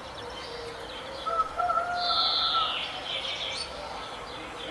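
Birds calling and chirping: a clear held call comes in a little over a second in, overlapping a higher falling chirp, with smaller chirps around them.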